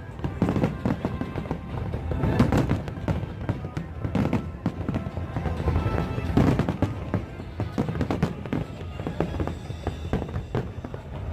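Fireworks display: aerial shells and crackling bursts going off one after another, in clusters, with music playing underneath.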